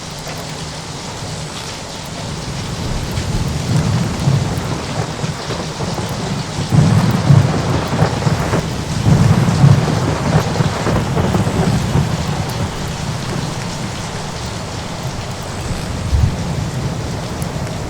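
Thunder rolling over steady rain: the low rumble builds a few seconds in, is loudest in the middle and slowly dies away while the rain keeps up.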